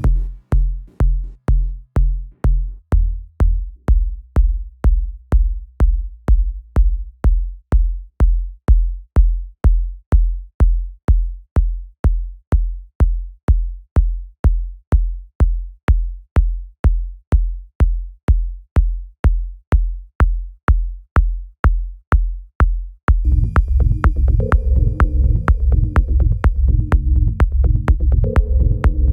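Electronic music in production: a drum-machine kick and bass pattern playing on its own, about two punchy hits a second, its low note dropping in pitch twice in the first three seconds. About 23 seconds in, the fuller mix with other parts comes back in.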